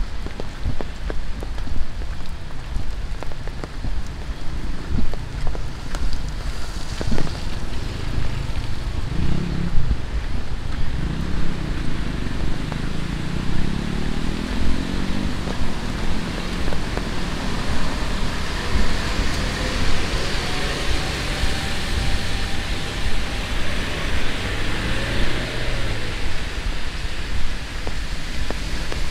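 Heavy tropical rain falling steadily, with many sharp drip clicks close by in the first seconds. A motor vehicle passes on the wet road partway through, and the hiss brightens in the second half.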